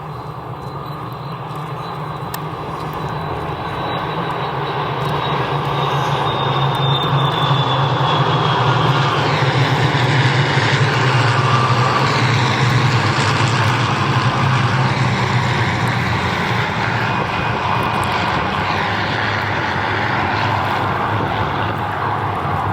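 Propeller-driven piston-engined aircraft flying past. The engine sound grows louder over the first ten seconds or so, is loudest around the middle, then eases off a little.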